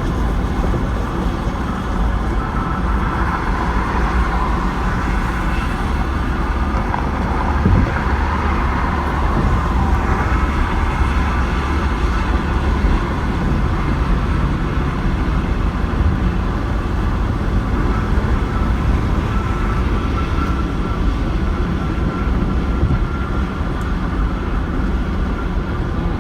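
Steady rumble of road traffic: vehicle engines and tyres running, with a brief thump about eight seconds in.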